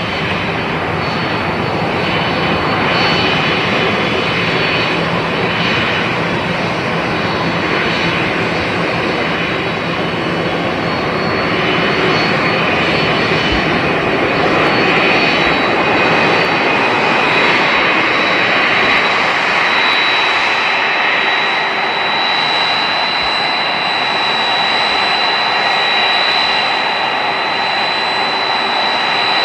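Jet airliner engines running loud and steady, a dense rush with a high-pitched whine that grows stronger in the second half as the deep rumble drops away.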